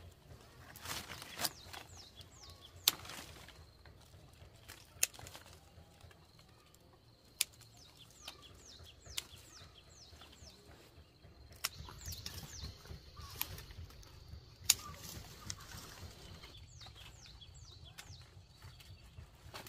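Small birds chirping, with many short calls falling in pitch and coming in clusters. Sharp knocks or clicks are heard now and then, the loudest about three seconds in and near fifteen seconds in.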